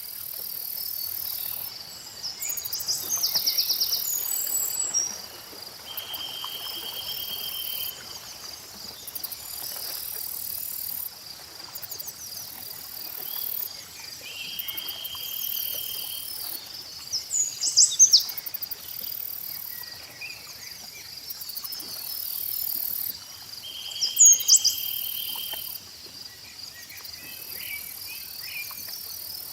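Lakeside nature ambience: insects and crickets trilling steadily in a high pitch, with a bird's sharp chirps, loudest three times (about 3, 18 and 24 seconds in). A buzzy trill lasting about two seconds repeats every eight seconds or so, over a faint low wash.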